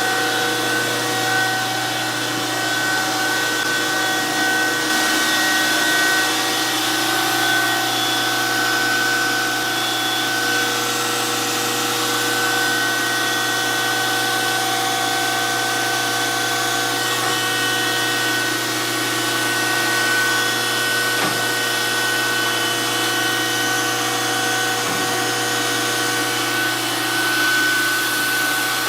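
DoAll surface grinder running steadily: a constant machine hum with several steady tones over a continuous hiss.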